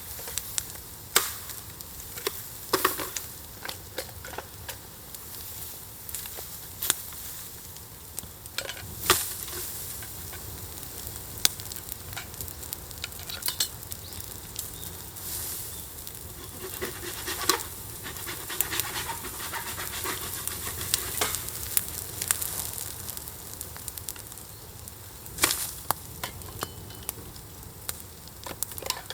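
Campfire burning with irregular crackles and sharp pops over a steady hiss. The hiss grows fuller for several seconds in the middle, as fresh fuel catches on the embers.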